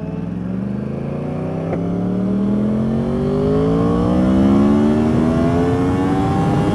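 Yamaha YZF-R1's inline-four engine pulling steadily under acceleration in one gear, its pitch rising slowly and evenly for several seconds.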